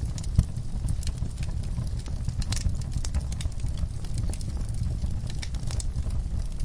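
Wood fire in a fireplace crackling, with irregular sharp pops over a steady low rumble; one louder pop about half a second in.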